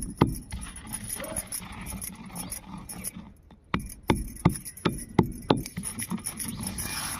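Repeated dull thuds, about two or three a second, as soil or clay is worked: one run at the start and another from about four seconds in, with a low scraping rustle between.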